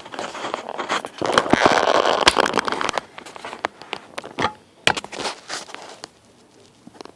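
Dry basswood and tulip poplar inner bark fibres rustling and crackling as they are rubbed and worked by hand into a tinder bundle: dense crackling for the first three seconds, then scattered crackles.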